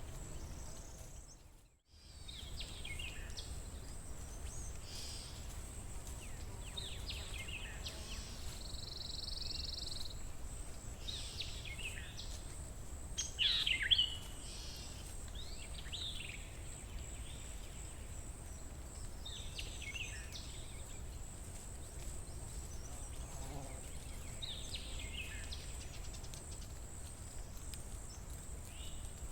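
Wild birds calling in a forest: a series of short chirps and whistled calls, the loudest a falling call about halfway through, over a steady low background rumble and a thin, steady high-pitched tone. The sound drops out briefly about two seconds in.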